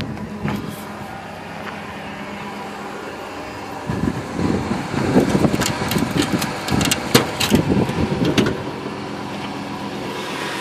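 Cadillac Northstar 4.6 V8 idling smoothly and steadily. From about four seconds in to about eight and a half seconds, louder irregular thuds and clicks sound over the idle.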